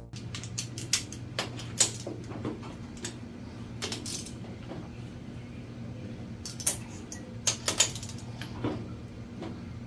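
Scattered light metallic clinks and taps from hand tools handled against a motorcycle engine, over a steady low hum.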